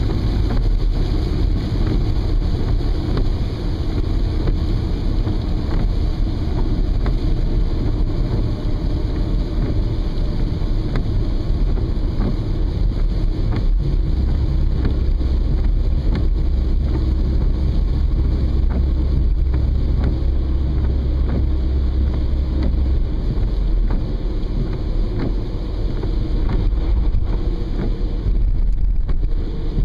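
Steady low rumble of a car driving in the rain, heard from inside the cabin, with faint scattered ticks over it.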